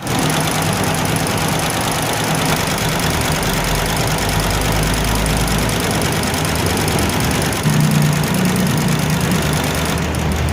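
Motor vehicle engine running under a loud, steady rush of noise, its low hum changing pitch a few times as engine speed shifts.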